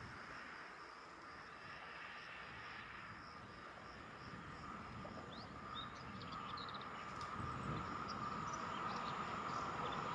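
Freight train drawn by an ET41 twin-section electric locomotive approaching, its rolling noise swelling steadily and growing louder over the last few seconds. Behind it, a steady high insect trill and a few short bird chirps.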